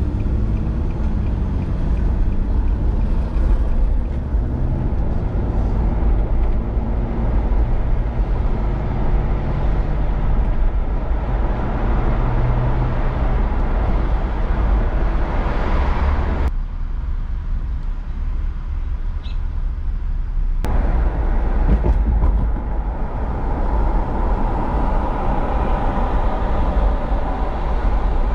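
Boat motor running steadily under way, with a heavy low rumble and a hiss over it. About sixteen seconds in, the hiss drops away for some four seconds while the rumble carries on, then returns.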